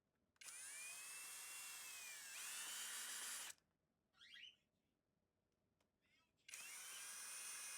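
A small electric motor runs in two bursts, about three seconds and then about two seconds long, whining with a pitch that dips and recovers as if under load.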